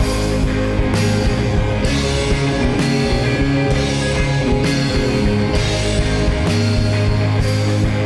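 Rock band playing an instrumental passage live: electric guitars, bass, keys and drums, with a cymbal wash about once a second and no vocals.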